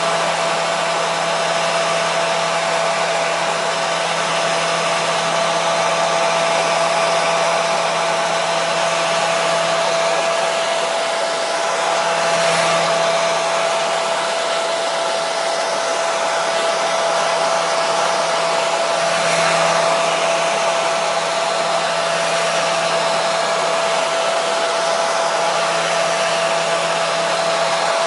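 Hair dryer running steadily: a continuous rush of blown air with a steady motor hum.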